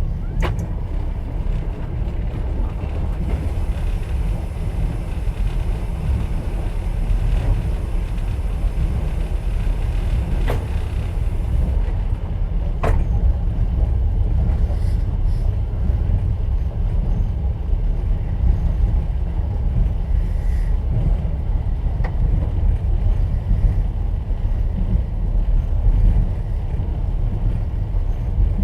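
Passenger train running, heard from inside a platzkart sleeper carriage: a steady low rumble of the wheels on the rails, with a few sharp clicks, about 10 and 13 seconds in.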